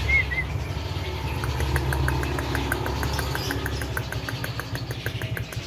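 Engine running at idle, a steady low rumble, with an even rapid ticking of about five a second from about a second and a half in. Two short high chirps come at the very start.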